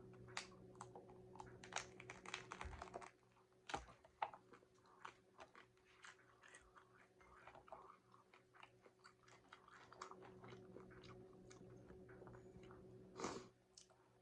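Quiet, close-miked chewing and biting into a crunchy taco shell, with many short crisp crunches and a couple of louder bites, one about four seconds in and one near the end.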